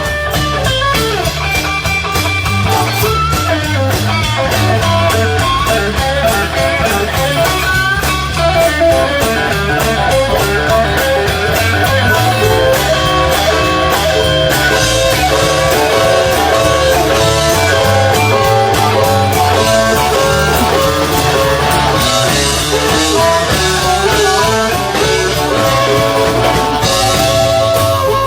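Blues-rock band playing an instrumental break: electric guitar taking a solo over bass and drum kit.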